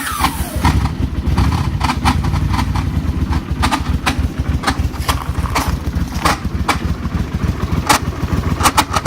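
Honda Silverwing scooter's parallel-twin engine idling just after a cold start, with an irregular ticking rattle over the steady run. The owner places the noise in the radiator area and says it almost sounds like a timing chain.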